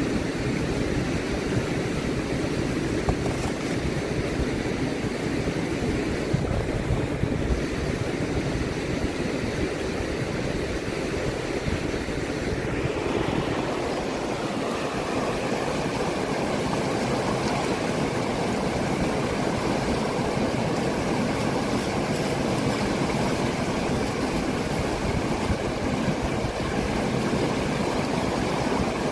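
Fast-flowing river water rushing steadily, an even wash of noise that shifts slightly in tone about halfway through.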